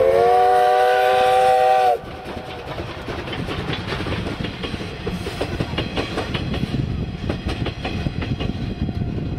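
A Moka Railway train sounds its whistle, a loud chord of several notes held for about two seconds, which cuts off sharply. The train then runs on with a steady rumble and a rhythmic clatter of wheels over the rail joints.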